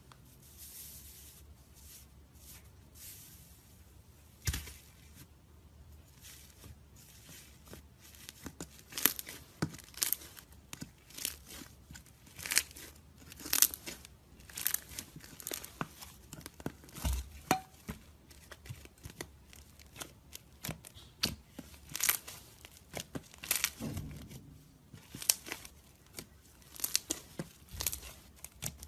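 Icy slime's dried crust crackling and crunching as it is pressed and poked: a faint rustle at first, then irregular sharp crackles that come thick and loud from about eight seconds in.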